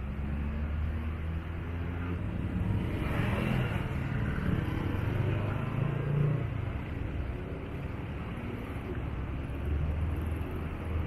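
Low rumble of passing road traffic, with one vehicle's engine hum growing louder and fading again around the middle.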